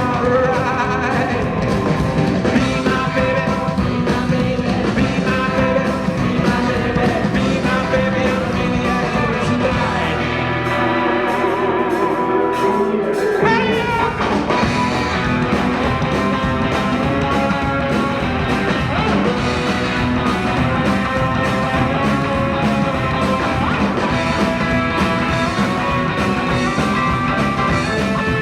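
Rockabilly band playing with singing and electric guitar. About ten seconds in, the drums and bass drop out for a few seconds, then the full band comes back in.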